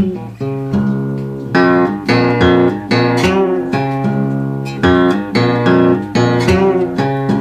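Solo delta blues guitar playing an instrumental figure: plucked treble notes over a repeated low bass note, with no singing.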